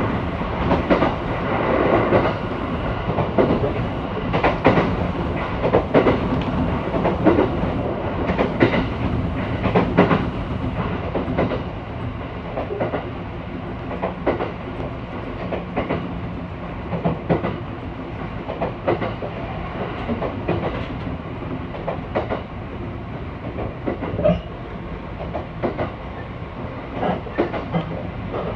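Train running, heard from inside the carriage: a steady rumble of wheels on the rails with an irregular clickety-clack of rail joints, a little quieter after the first ten seconds or so.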